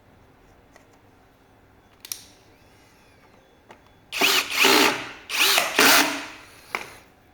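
Power drill running in several short bursts, its pitch rising and falling as it spins up and slows, while the fender fasteners are taken out. A short click comes about two seconds in.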